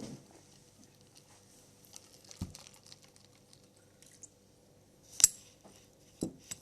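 Scattered light clicks and knocks of dishes and crab shells handled during a meal, the sharpest click about five seconds in.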